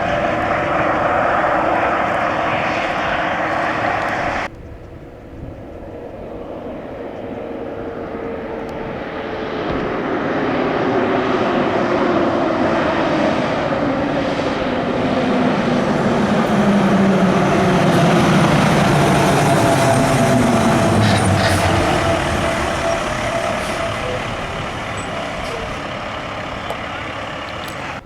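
A loud engine sound cuts off abruptly about four seconds in. A heavy vehicle's engine then grows louder and goes past, its pitch falling slowly over about fifteen seconds before it fades.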